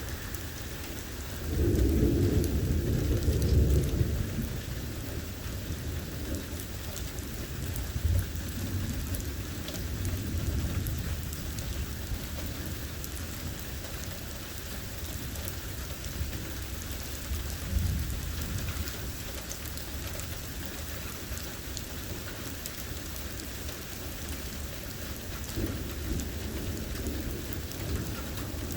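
Steady rain from a severe thunderstorm, with rolls of thunder rumbling over it. The loudest roll comes about two seconds in, and smaller rumbles follow several times later.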